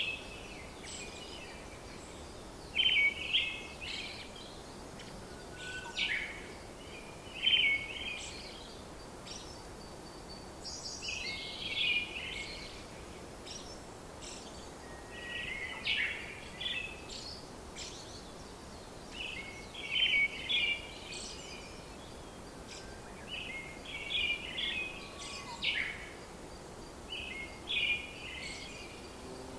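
Birds chirping in short, repeated phrases every couple of seconds over a steady background hiss.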